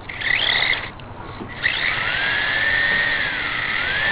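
Losi Micro Desert Truck's small electric motor and drivetrain whining at throttle, with its wheels spinning in mud while the truck is stuck. It comes in a short burst, then a longer one whose pitch rises, dips and rises again.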